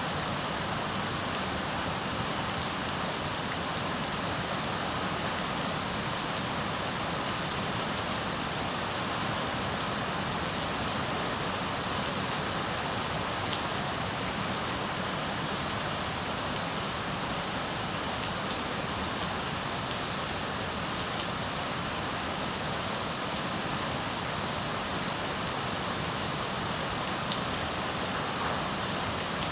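Steady heavy rain falling outside, an even hiss with a few scattered drip ticks.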